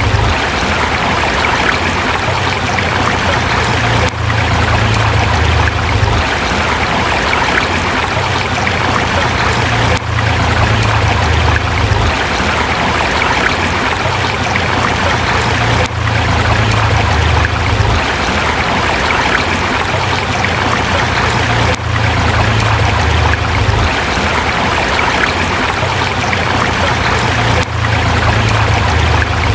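A forest river rushing steadily over rocks, an even, continuous wash of flowing water, with a low rumble that comes and goes every few seconds.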